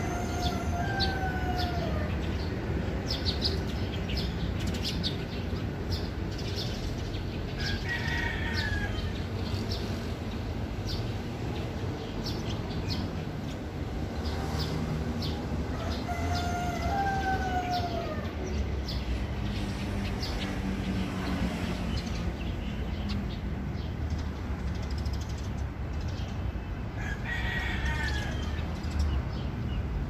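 Bird calls: a falling call about a second long, heard twice roughly fifteen seconds apart, with shorter, higher calls between them and many quick high chirps. A steady low rumble of background noise runs underneath.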